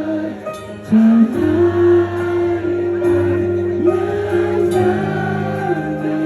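Live full-band pop-rock music in an instrumental passage: a held, gliding lead melody over steady bass notes.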